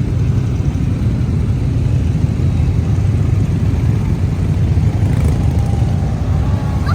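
Tram running with a steady low rumble, and a faint rising whine coming in near the end.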